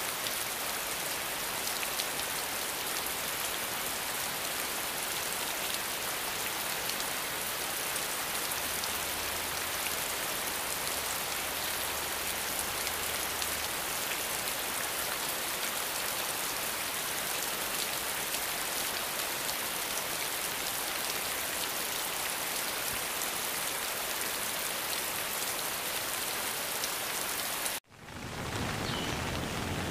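Steady rainfall, an even dense hiss of drops. About two seconds before the end it drops out for an instant and comes back with more low rumble in it.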